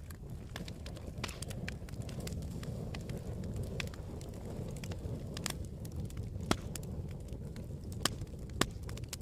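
Campfire crackling: a steady low rush of burning with scattered sharp crackles and pops, three of them louder in the last few seconds.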